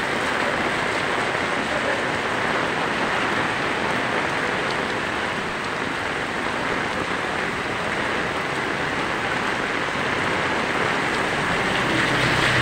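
Heavy rain pouring steadily on a wet paved street. Near the end a motorcycle engine passes close by.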